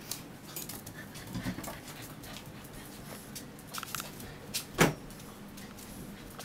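Bullmastiff puppies playing, with scattered scuffling and clicking and a few faint puppy noises, and one loud knock about five seconds in.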